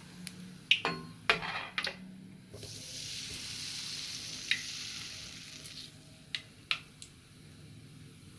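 Rosette batter frying in hot oil: an even sizzle lasting about three seconds, starting a little over two and a half seconds in. Sharp metal clinks and taps come before it and twice after it.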